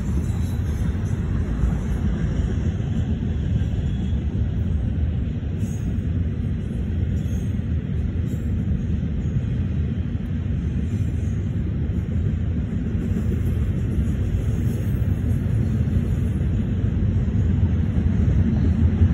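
Double-stack intermodal freight train rolling past: a steady low rumble of the cars and wheels on the rails, growing a little louder near the end.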